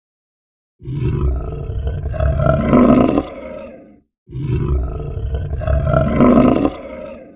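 A large animal roaring twice, the same deep call of about three seconds repeated, each rising in strength and then trailing off.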